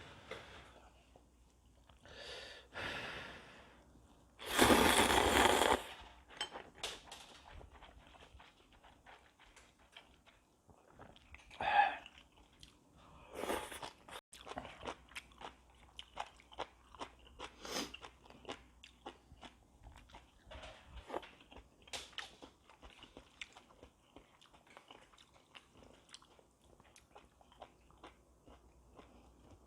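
A person eating ramen noodles: one loud, noisy slurp lasting about a second and a half, starting about four and a half seconds in, then steady chewing with many small wet mouth clicks and smacks.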